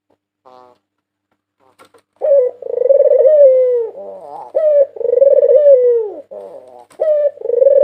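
White Barbary dove (puter putih) cooing, starting about two seconds in. Three calls about two and a half seconds apart, each a short note followed by a long rolling coo that falls in pitch at the end.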